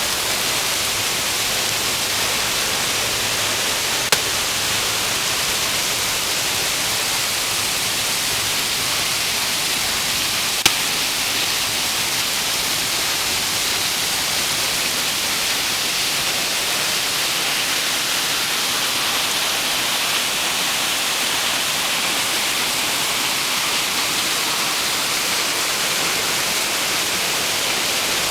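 Waterfall rushing: a steady, even hiss of falling water, with two brief clicks about 4 and 11 seconds in.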